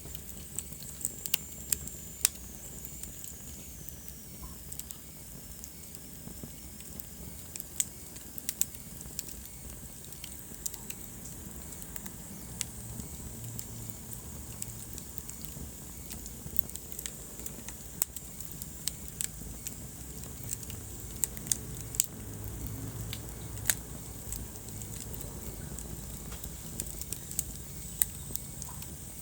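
Wood fire burning in a fireplace: a low steady rumble of flames with sharp crackles and pops at irregular intervals.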